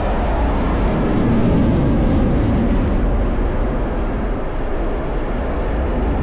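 Jet fighter engine roar from a passing military jet, with a deep rumble underneath, swelling about one to two seconds in and then holding steady.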